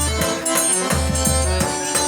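Forró music played on accordion, which carries an instrumental phrase of held chords and melody over a steady beat of low bass drum strokes and a rhythmic shaker-like percussion.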